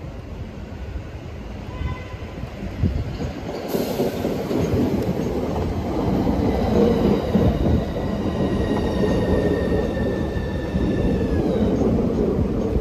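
Southeastern Class 395 Javelin electric train arriving at the platform, its running noise growing louder as it draws alongside. A high whine with several tones falls slowly in pitch as the train slows, fading out near the end.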